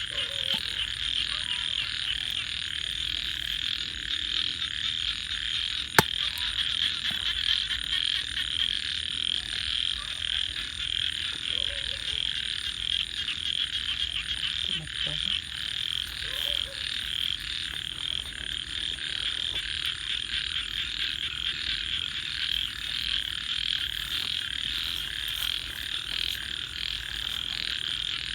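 A dense chorus of frogs calling continuously in rapid, overlapping pulses, with one sharp crackle of burning wood about six seconds in.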